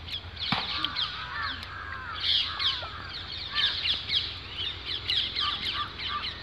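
Several birds calling: many short, sharp notes sliding downward, overlapping one another, over a low steady rumble.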